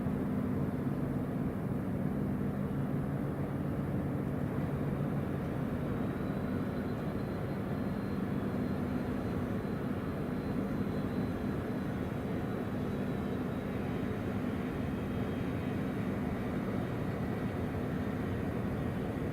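A ship's engines running steadily in a continuous drone, with a low hum that fades about four seconds in.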